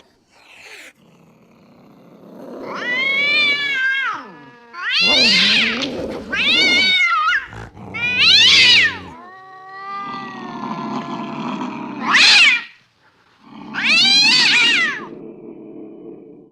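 Angry cat caterwauling: about half a dozen drawn-out, wavering yowls over a low growl, the threatening cries of a cat ready to fight.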